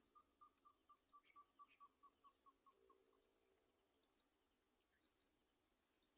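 Near silence, with a faint fast series of short chirps, about six a second, that stops about halfway through, and scattered faint high clicks.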